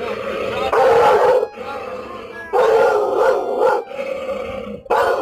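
A dog howling in several long, drawn-out howls, each held for about a second.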